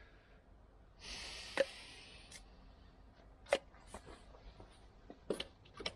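Small parts being handled: a brief rustle about a second in, then five or six sharp clicks and light knocks, like bolts and fittings being picked over in a box.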